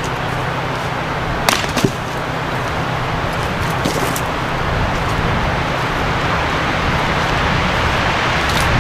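A few sharp blows of a Plumb cruiser's double-bit axe into dead wood: two close together about a second and a half in, two more near the middle, another near the end. All over a steady background rumble.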